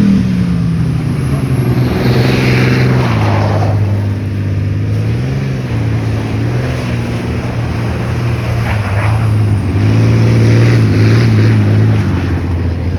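Car engine revving hard, its pitch rising and falling with the throttle, with a sharp drop in pitch about three seconds in.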